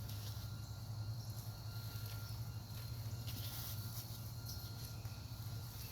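Faint rustling and crackling of soil and sweet potato roots being pulled apart and sorted by hand, with scattered small clicks, over a steady low hum and a thin steady high tone.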